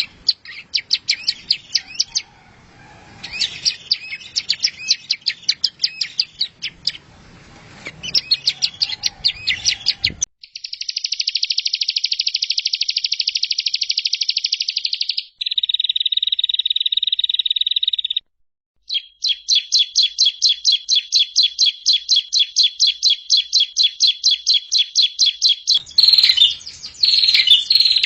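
Songbird song played as a masteran tutoring track for cage birds, made of spliced recordings. It opens with about ten seconds of quick chirping phrases over background hiss. Then come clean trills, a five-second one and a lower three-second one, then a long run of rapid repeated notes, and the chirping returns near the end.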